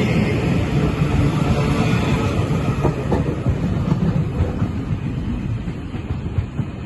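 Class 397 electric passenger train running along the track, with steady wheel-and-rail rumble and a few clicks over the rail joints, slowly fading as it pulls away.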